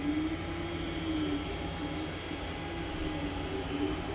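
3D printer running a print: its stepper motors whine in a tone that slides up and down as the head moves, over a steady low hum.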